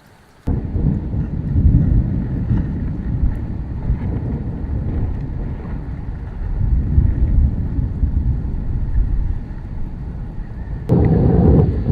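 Wind buffeting the microphone: a loud, uneven low rumble that starts abruptly about half a second in and changes abruptly near the end.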